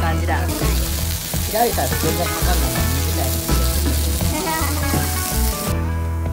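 Sliced eggplant and zucchini sizzling in oil on a hot iron griddle plate, the hiss cutting off suddenly near the end. Background music with a throbbing bass plays throughout.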